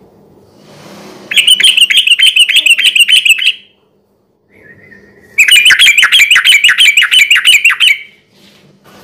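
Yellow-vented bulbul singing two loud bursts of fast, repeated chirping notes, about four or five a second, each burst lasting two to three seconds with a short pause between them.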